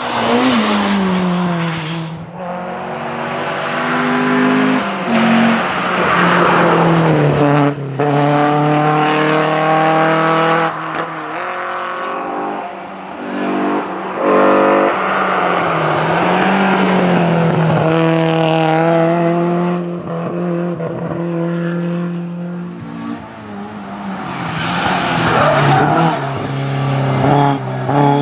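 Historic rally cars driven hard: engines revving up through the gears, pitch climbing and dropping back at each shift. A car sweeps past near the start, its engine note falling as it goes by.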